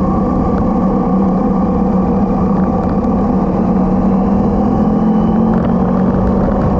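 Motorcycle engine running at a steady pitch, with no change in revs.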